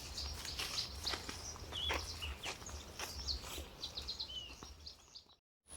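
Outdoor bird chorus: many birds chirping with short, overlapping high notes and an occasional falling call, over a low steady rumble. The sound drops out to silence for a moment near the end.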